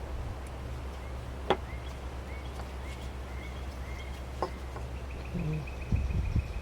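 Two sharp clicks of a carving knife cutting into a small wooden carving, a couple of seconds apart, over a steady low hum. Faint high chirps sound in the background, a run of short notes and then a thin trill, and low rumbles of handling come near the end.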